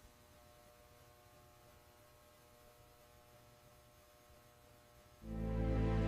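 Near silence with a faint steady electrical hum, then background music starts suddenly about five seconds in.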